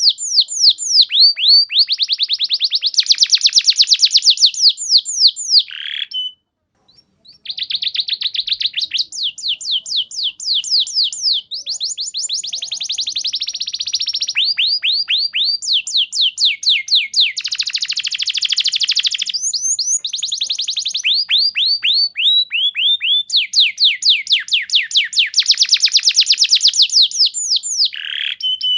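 Domestic canary singing a long, continuous song of fast trills: rolls of rapid, repeated high chirping notes that change to a new note type every second or two, with one short pause about six seconds in.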